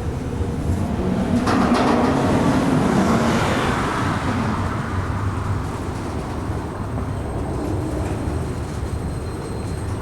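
Norfolk Southern freight train going by, its diesel locomotive engine giving a steady low hum. About a second and a half in, the sound swells and then eases off over the next few seconds.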